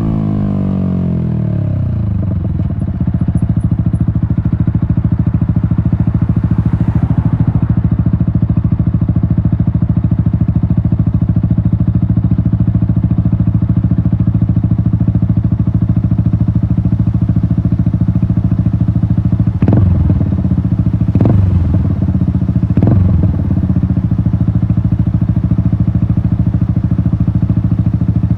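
Yamaha MT-125's single-cylinder four-stroke engine through an Akrapovic exhaust, revs dropping as the bike slows, then idling steadily. About twenty seconds in it gives three quick throttle blips, about a second and a half apart, before settling back to idle.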